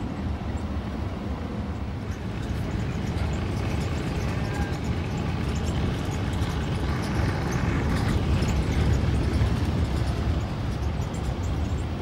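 Vehicle driving on the highway: steady low road and engine rumble with tyre hiss, swelling a little about seven seconds in.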